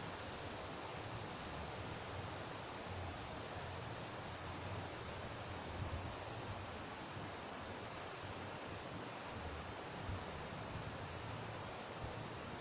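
Steady outdoor ambience: a constant high-pitched insect drone, such as crickets, over an even hiss.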